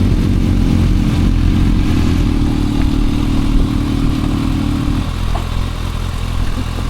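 Motorcycle engine running close by, with a steady low note. About five seconds in the sound drops to a lower, quieter note.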